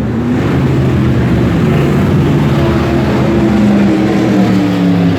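A pack of wingless sprint cars' engines running at low, steady revs, their pitch drifting slightly up and down, as the field rolls around the track before the start of the feature.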